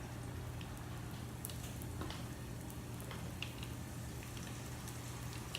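Hot frying oil crackling faintly and steadily in a pan, with scattered small pops.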